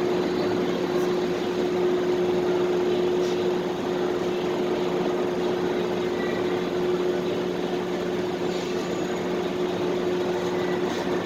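Steady mechanical hum and rush of a supermarket parking-lot ambience, with a constant low droning tone and a few faint ticks.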